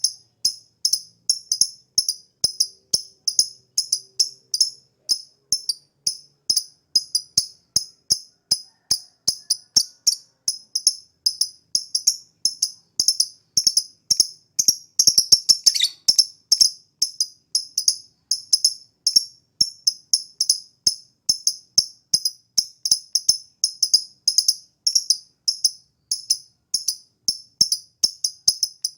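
Lovebird chirping in rapid, evenly repeated high chirps, about three a second, with a louder flurry about halfway through. This is a 'pancingan' song recording, played to prompt lovebirds to sing.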